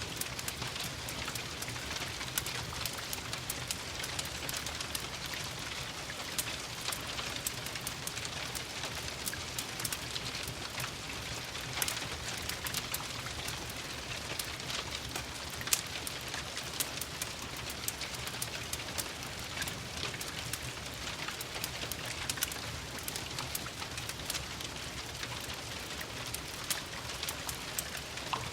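Steady rain mixed with a crackling wood fire, with many small sharp pops and crackles scattered throughout.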